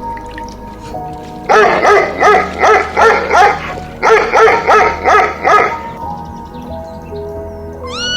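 A dog yapping rapidly, about three or four high barks a second, in two bursts separated by a brief pause, over background music.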